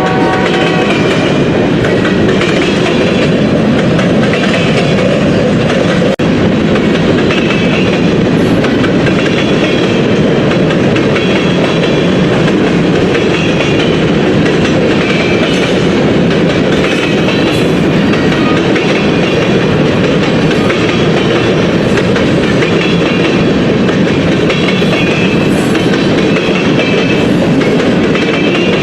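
A train passing close by: a loud, steady rumble and clatter of wheels on the rails that goes on unbroken. The last note of its horn dies away at the very start.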